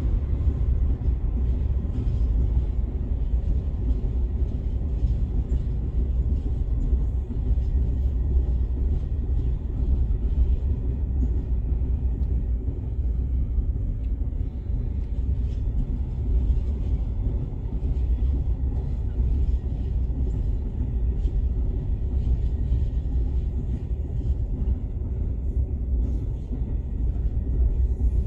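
Intermodal container wagons of a freight train rolling past, a steady rumble of wheels on rails.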